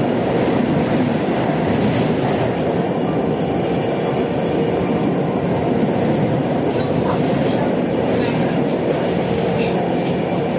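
Metro train running at steady speed: a continuous rumble of the train with a faint steady hum, heard from inside the carriage.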